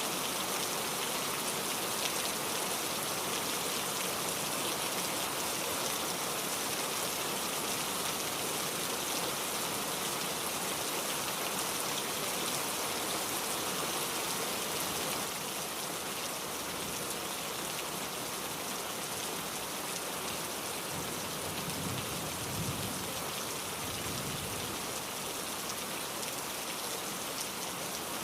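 Heavy rain falling steadily, a dense even hiss of drops on surfaces, with a faint low rumble in the later part.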